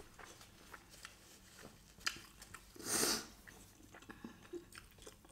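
Close-miked chewing of a mouthful of chicken biryani, with soft wet mouth clicks throughout and a short, louder hiss of breath about three seconds in.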